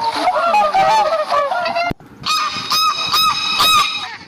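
A crowd of birds calling, many short overlapping calls at once. After a sudden cut about two seconds in, a run of about four evenly repeated calls follows.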